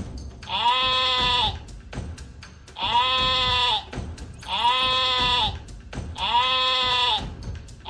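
Four identical bleats, each about a second long, come at even intervals of under two seconds, with short clicks and percussion between them.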